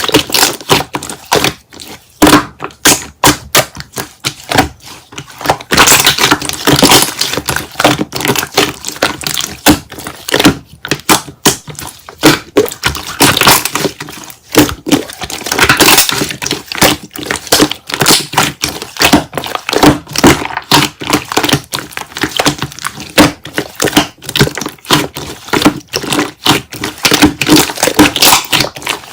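Slime being squeezed and pressed by hand, giving dense, rapid crackling and clicking pops from trapped air bubbles, with a few longer squishy swells.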